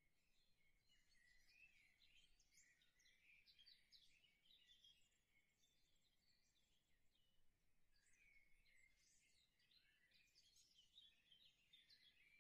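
Near silence, with faint birdsong: many short chirps and twitters going on throughout.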